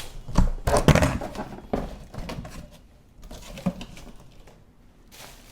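Cardboard box and packing being handled as a toaster oven is lifted out: several knocks and rustling in the first two seconds, then a single lighter knock.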